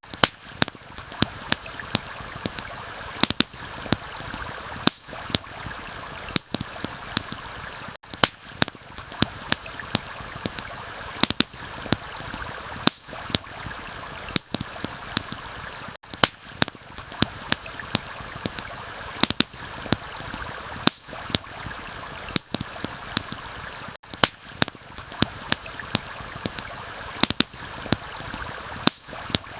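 Steady rush of a flowing stream, with frequent sharp pops and crackles from a campfire over it.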